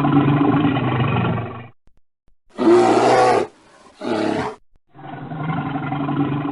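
Deep animal roars, several separate recordings cut together: a long roar, two short roars about three and four seconds in, then another long roar starting near the end.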